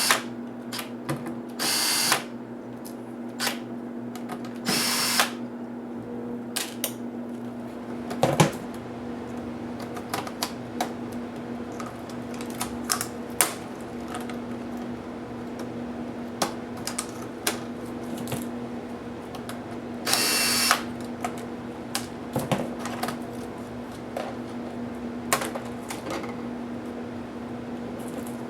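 Small electric screwdriver whirring in short half-second bursts, four times, as screws are backed out during laptop disassembly. Between the bursts come many light clicks and taps of screws and plastic parts being handled, over a steady low hum.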